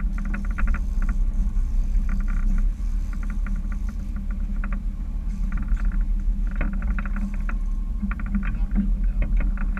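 Charter fishing boat's engine running with a steady low rumble, with short bursts of rapid ticking higher up recurring every second or two.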